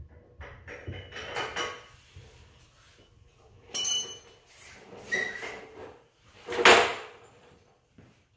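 Ratchet tie-down straps being released and unhooked: a few separate metallic clicks and clanks, one ringing briefly about four seconds in, and the loudest sharp clatter near the end.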